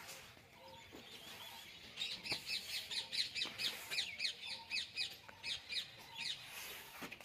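A bird calling in a quick run of short, high, downward-sliding chirps, about five a second, starting some two seconds in and lasting about four seconds.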